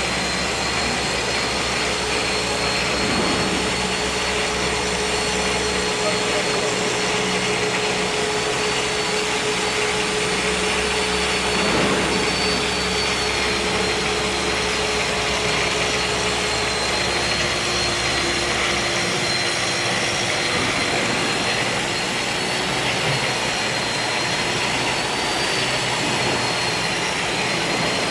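Lathe-bed grinding machine running steadily: a continuous even rush of noise with a thin, high, steady whine over it.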